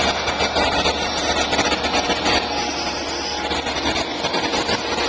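Long Island Rail Road diesel train running at the crossing: steady engine and wheel noise with a faint constant tone.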